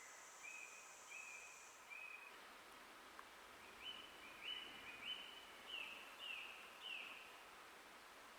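Faint forest birdsong: a songbird sings a few short whistled notes, then a run of about six quick down-slurred notes in the second half. A steady high buzz runs underneath and stops about two seconds in.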